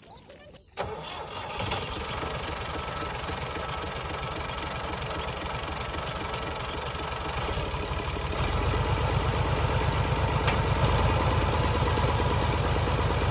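A heavy farm-machinery engine starts about a second in and runs with a rapid, even firing beat. It grows louder about eight seconds in, as it is revved up or takes load.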